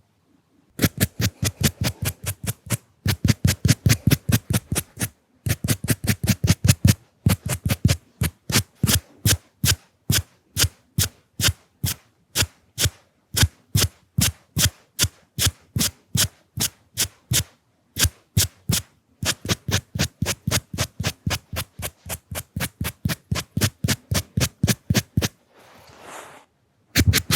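Coloured pencils rubbed in fast, short scratchy strokes, about five a second, in runs broken by brief pauses. A short soft hiss comes near the end.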